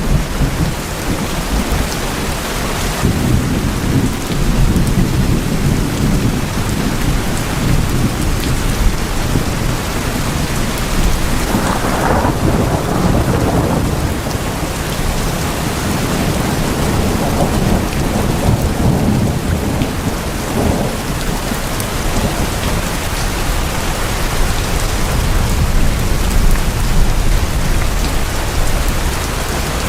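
Heavy rain falling on tin roofs, a steady dense patter, with thunder rumbling low underneath. The rumble swells briefly about twelve seconds in.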